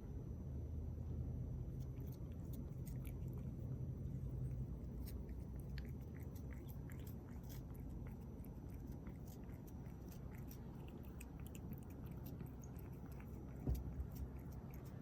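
A cat licking a Churu paste treat: faint wet clicks and smacks of its tongue and mouth, over a low steady hum. There is one soft thump near the end.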